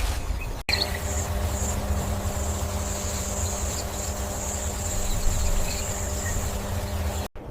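Steady high insect buzz over a low rumble and a faint steady hum, starting abruptly under a second in and cutting off just before the end.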